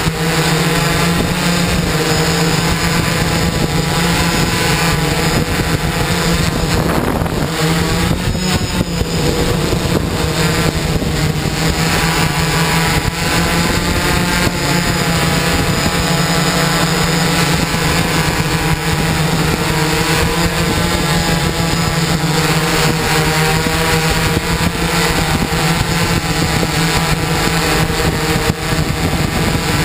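Six electric motors and propellers of an X-468 RC hexacopter humming steadily in flight, several overlapping tones wavering up and down in pitch as the throttle shifts.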